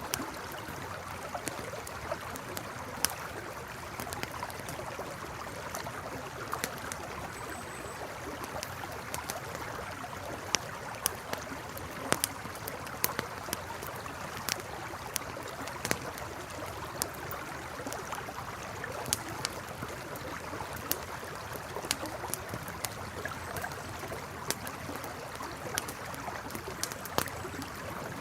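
Campfire crackling, with sharp irregular pops and snaps over the steady rush of a flowing river.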